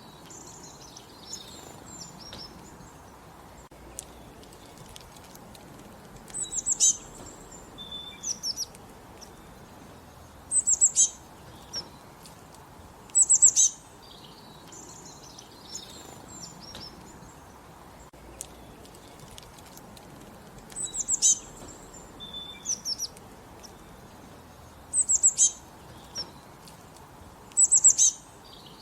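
Small songbirds singing: short, high-pitched song phrases repeated every two to four seconds, with softer chirps between them over a steady faint hiss.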